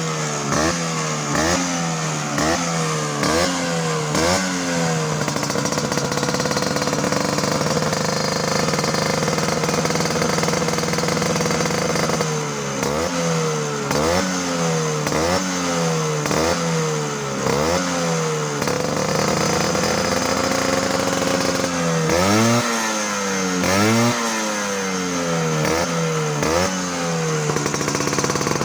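Vespa scooter engine through an aftermarket exhaust with an aluminium silencer, idling and blipped again and again in quick throttle revs, nearly two a second, with stretches of steady idle between the bursts and a few longer revs near the end.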